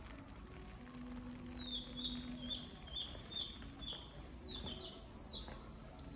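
A small bird calling: a quick run of short high chirps, then three sharp falling whistled notes, over a steady background hiss.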